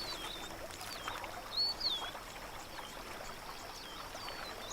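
River water splashing and trickling, with a bird's short swooping whistled calls repeating above it.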